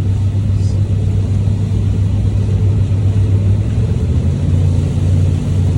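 Steady road noise inside a moving pickup truck's cabin: a constant low rumble of engine and tyres.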